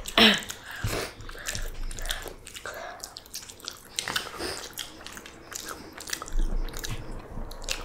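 A person chewing and biting food close to the microphone: irregular wet mouth clicks and smacks, louder just after the start.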